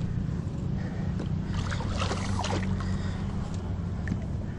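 A steady low mechanical hum with faint scattered clicks and rustles over it.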